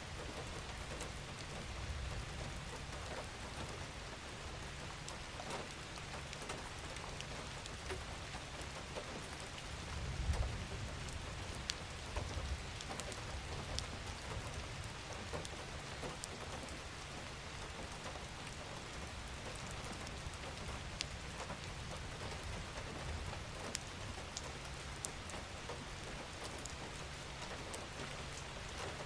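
Steady gentle rain falling, an even hiss with many individual drops ticking. A low rumble swells briefly about ten seconds in.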